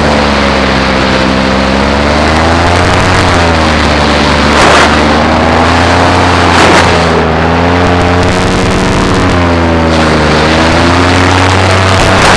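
Paramotor engine and propeller running steadily in flight, the engine note drifting slowly up and down with a couple of brief rushes of noise.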